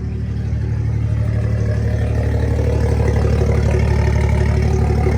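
BMW 335i's N55 turbocharged inline-six idling steadily, warming up to operating temperature after an oil change, with a deep low hum that grows slightly louder about half a second in.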